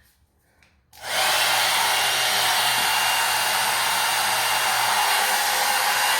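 Hot-air brush hair dryer (a one-step dryer and volumizer) switched on about a second in, then running with a steady blowing rush over a low motor hum.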